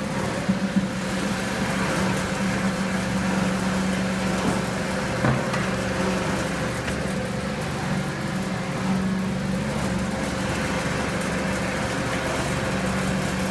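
Garb-el GHV-1000 10-horsepower hammermill garbage disposal running steadily, a constant motor hum with a brief knock about five seconds in.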